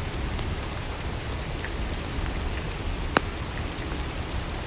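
Steady rainfall, an even hiss with scattered drops ticking, and one sharper tick about three seconds in.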